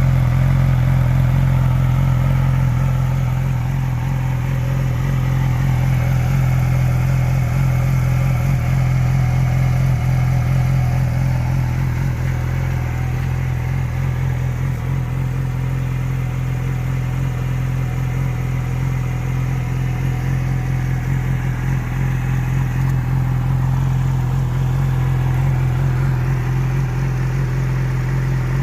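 2006 Yamaha YZF-R6's 600 cc inline-four running steadily through a TOCE dual-bore slip-on exhaust, holding an even engine note without revving.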